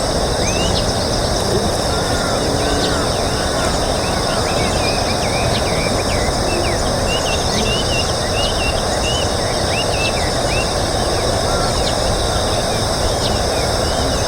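Steady rushing of river water, with many short bird chirps scattered over it and a constant high-pitched buzz above.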